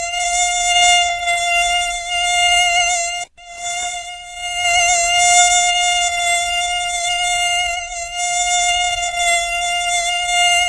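Mosquito whine: a steady, high-pitched buzz with many overtones that wavers slightly in pitch. It cuts out briefly about three seconds in.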